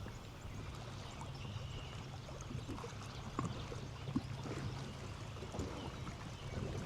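Outdoor waterside ambience: a steady low hum, with faint small clicks and splashes scattered through it.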